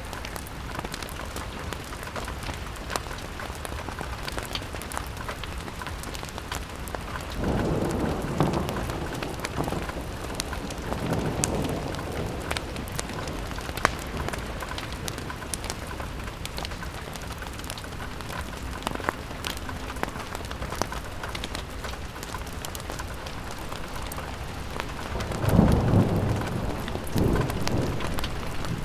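Rain falling on a window pane, with many small sharp ticks from the drops and a fire crackling. Twice, about a quarter of the way in and near the end, a low rumble swells for a couple of seconds.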